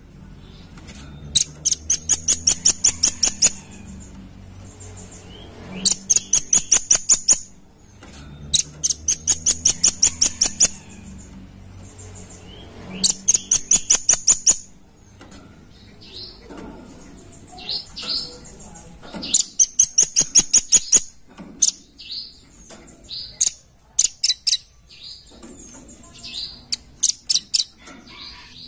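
Velvet-fronted nuthatch calling: fast runs of sharp, high chit notes, about five a second, in bursts of around two seconds repeated every few seconds, with scattered single notes in between.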